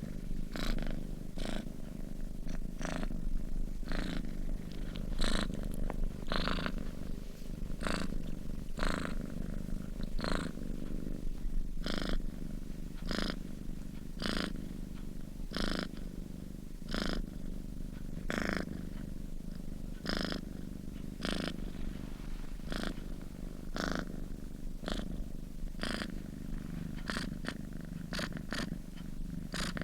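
A sleeping domestic cat purring steadily, the purr swelling in a regular rhythm with each breath, about once every second and a bit.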